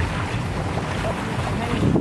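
Wind buffeting the microphone over the rush and splash of water against the hull of a paraw, a Filipino outrigger sailboat, under sail.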